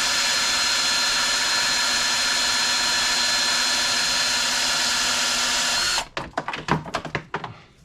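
Battery-powered drill driving a wire-stripping machine, running at a steady speed with a high whine. It stops about six seconds in, followed by a quick run of sharp clicks and knocks.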